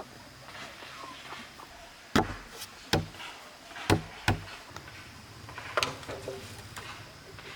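Several hard knocks on bamboo, about five irregularly spaced strikes over a few seconds.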